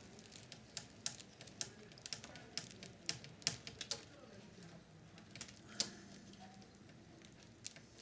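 Irregular light clicks and taps of small plastic parts and a tool being worked as a clipped-on part of a Philips radio cassette recorder is prised off. The clicks come thickest in the first four seconds, with one sharper click near the six-second mark.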